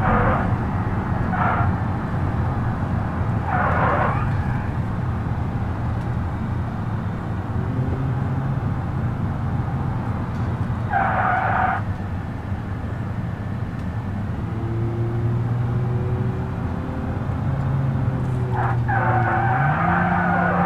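Minivan engine running steadily while driving, its pitch rising near the end as the revs go up. Several brief squeals come over it in the first few seconds, a longer one about eleven seconds in, and another starting just before the end.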